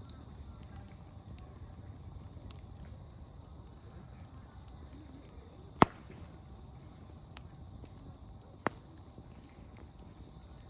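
Wood campfire burning with a few sharp pops of splitting firewood, the loudest about six seconds in and two smaller ones after it, over steady chirping of insects.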